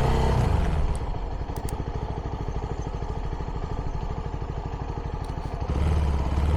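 CFMoto 300NK's single-cylinder engine through its stock exhaust, running at low revs: it eases off about a second in to a steady putter of evenly spaced firing pulses, then picks up again near the end.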